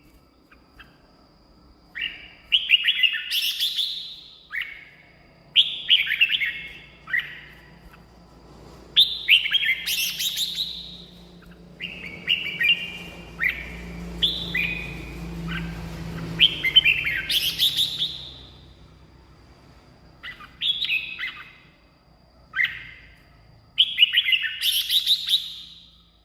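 Red-whiskered bulbul singing: a string of short, bright whistled phrases, each a second or two long, with brief pauses between them.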